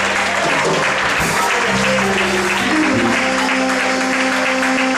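Instrumental church music of held chords that shift twice, under a congregation clapping and calling out.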